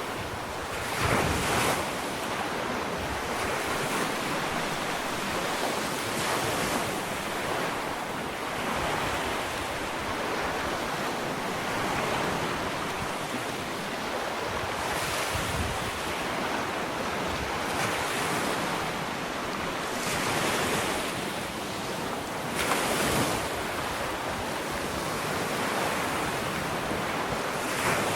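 Gentle ocean waves breaking and washing onto a sandy beach: a continuous surf hiss that swells as each wave comes in, loudest about a second in and again past the twenty-second mark.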